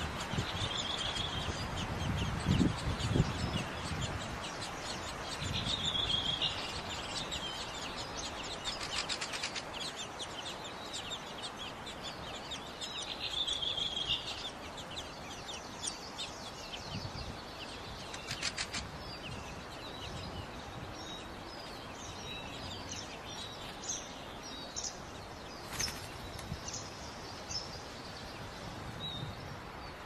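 Fieldfare nestlings cheeping high and thin as they beg for food at the nest, with short bird calls and a few quick rattling series. A few low thumps near the start are the loudest sounds.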